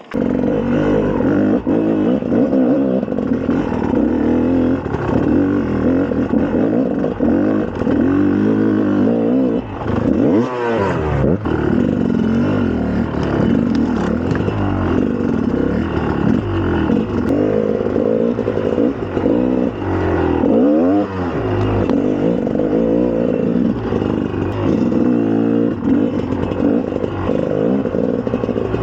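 2004 GasGas EC300's single-cylinder two-stroke engine under way, revving up and down repeatedly as the bike is ridden, with the pitch falling and climbing again about ten seconds in and again about twenty seconds in.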